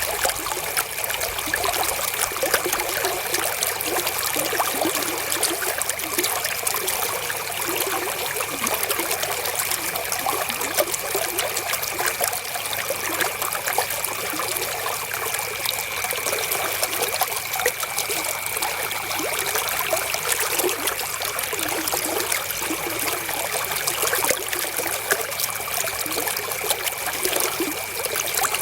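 Flowing river water, trickling and splashing over stones in an even, unbroken rush, with a faint steady high tone underneath.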